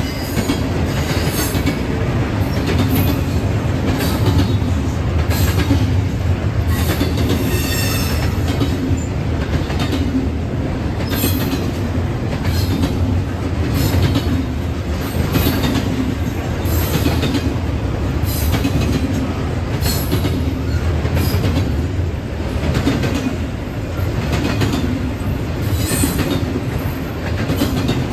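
Railroad cars rolling past on the track: a steady rumble with a click of wheels over rail joints every second or so, and now and then a high wheel squeal.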